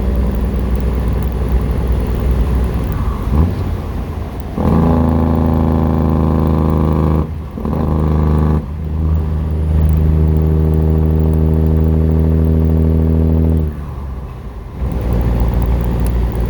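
Cummins ISX inline-six diesel with a straight-piped exhaust, heard from inside the truck's cab, running loud and steady under load with a faint high turbo whine rising above it. The engine note drops off briefly twice, about seven and fourteen seconds in, then comes back.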